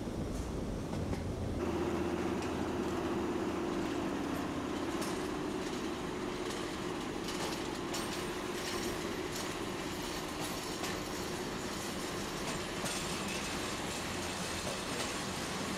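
Freight wagons rolling past close by, their wheels clicking over the rail joints, with a steady low hum through the first half. The sound cuts in from a different scene about a second and a half in.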